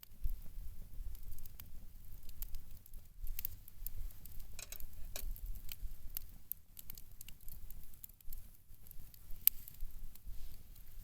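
Wood campfire crackling with irregular sharp pops and snaps over a steady low rumble.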